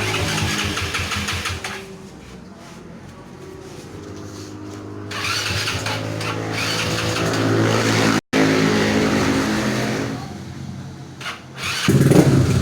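Yamaha Mio scooter's single-cylinder four-stroke engine, bored up to 155cc, being started and then running. It runs quieter for a few seconds, picks up and runs louder through the middle, and ends with a loud burst.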